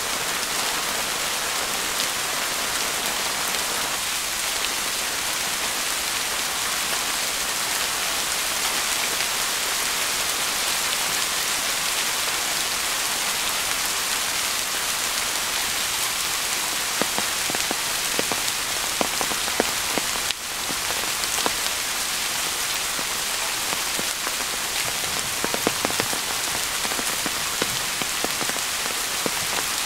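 Steady rain falling on a tarp shelter and the surrounding forest, with scattered louder drops tapping close by, mostly in the middle and again near the end.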